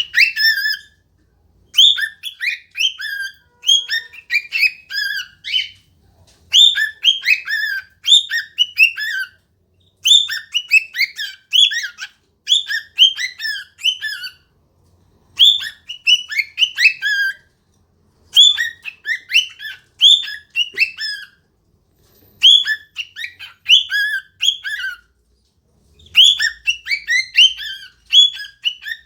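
Cockatiel singing: a quick phrase of high chirping whistles, repeated over and over with short pauses between.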